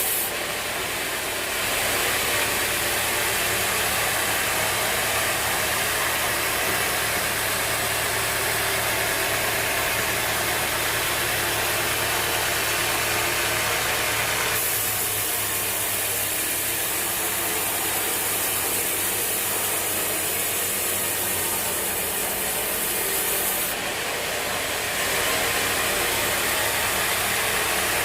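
Sawmill machinery running steadily, an even mechanical noise whose upper hiss strengthens and eases a few times.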